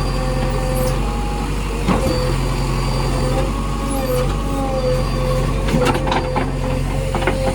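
JCB backhoe loader's diesel engine running steadily with a wavering whine, and a few knocks about two seconds in and again near the end.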